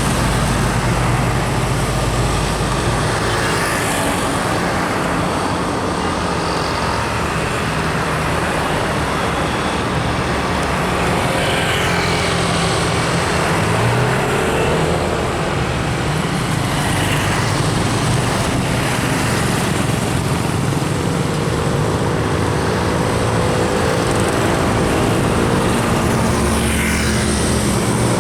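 Heavy road traffic: big vehicle engines running with tyre and road noise, vehicles passing at intervals. Near the end an engine note rises.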